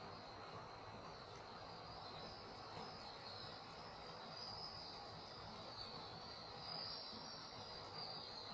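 Faint, steady high-pitched insect chorus, like crickets or cicadas, swelling and easing a little without a break.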